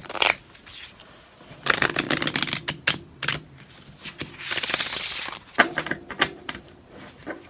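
Tarot cards being handled and shuffled: quick clicks and rustles of card stock, with a dense flurry about two seconds in and a second, steadier rustling run near the middle.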